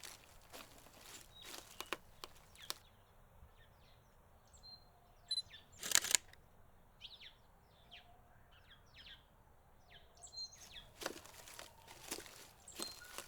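Birds chirping in short repeated calls, with irregular crunching clicks in the first few seconds and again near the end, and one sharp loud click about six seconds in.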